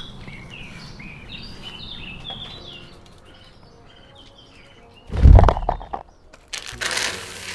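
Budgies chirping in quick, repeated short calls that dip and rise, for about three seconds. Then comes a loud, deep thump about five seconds in, and a brief burst of rustling near the end.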